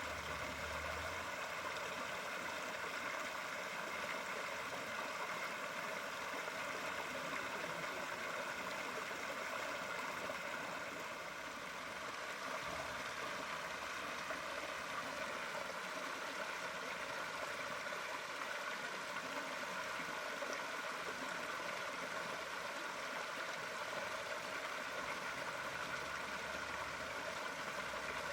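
Steady running water, an even rushing sound that holds level throughout.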